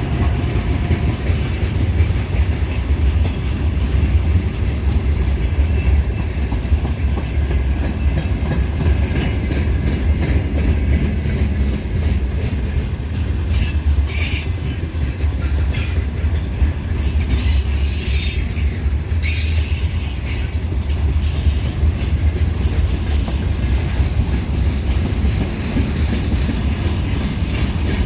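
Train pulling into a station behind a 2TE10U diesel locomotive: a steady low rumble of the train rolling on the rails, with bursts of high wheel squeal from about nine to twenty-one seconds in.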